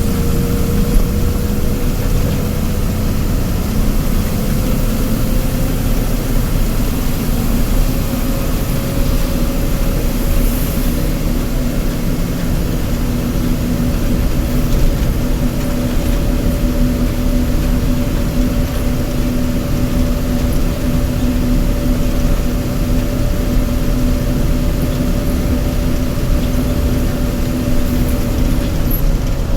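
Heavy vehicle engine running steadily under way, its pitch rising slightly over the first few seconds and then holding.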